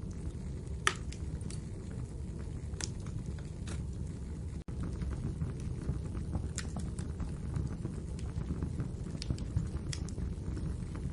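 Wood fire crackling in a fireplace: a steady low rumble of burning with sharp pops at irregular moments, the loudest about a second in. The sound drops out for a split second about halfway through.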